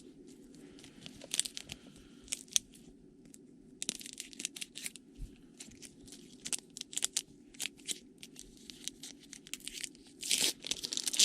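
Crinkling and tearing of a trading-card pack wrapper being handled and opened: a stream of small sharp crackles, louder and denser near the end.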